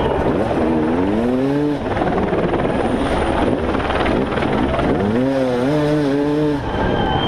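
Off-road motorcycle engines revving, rising and falling in pitch twice, over a steady loud din.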